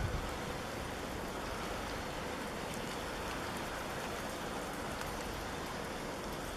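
Steady hiss of a snowstorm: wind and blowing snow, with a few faint scattered ticks.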